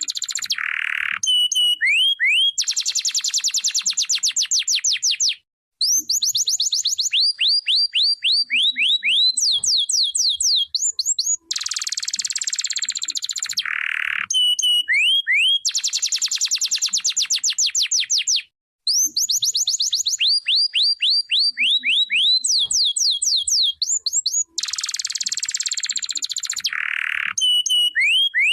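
Canary singing a long song of fast trills and rapidly repeated sweeping notes, high-pitched, broken by two short pauses.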